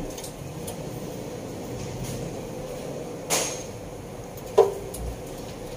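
Two knocks from objects being handled during the work. The first, about three seconds in, is a dull clunk. The second, a little over four and a half seconds in, is sharper and louder with a brief ring, heard over a steady faint hum.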